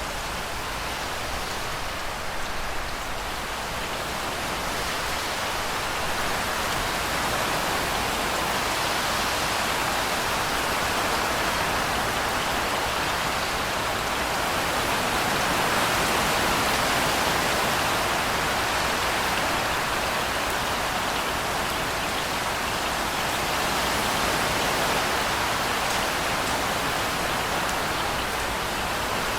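Heavy rain falling steadily: a dense, even hiss of drops that swells gently now and then.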